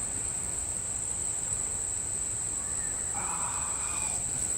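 Insects trilling in one continuous, steady high tone, with a faint short sound about three seconds in.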